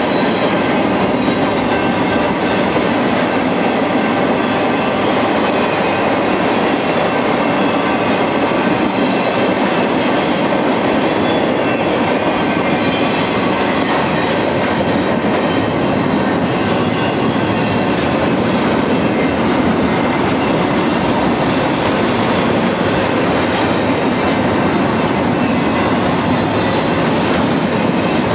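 Freight cars of a BNSF intermodal train rolling steadily past, with a continuous rumble and clatter of steel wheels on the rails.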